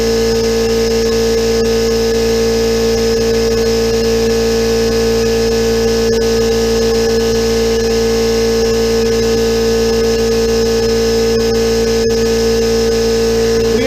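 Central Pneumatic electric air compressor running steadily under load, its motor and pump filling the tank toward shut-off pressure with a constant, even hum.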